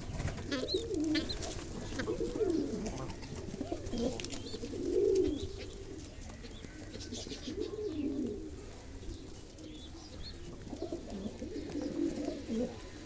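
A flock of fantail pigeons cooing, low warbling coos recurring again and again.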